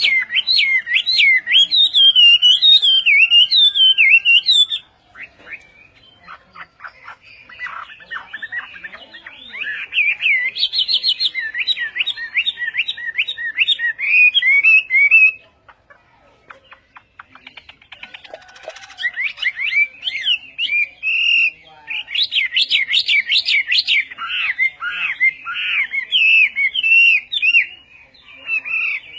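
Hwamei singing long runs of loud, rapidly varied whistled phrases, breaking off briefly about five seconds in and again around sixteen seconds in.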